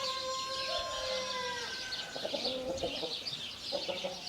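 Rooster crowing: the long held final note of the crow, dropping slightly as it ends, followed by short clucking calls from chickens. Busy high chirping runs underneath.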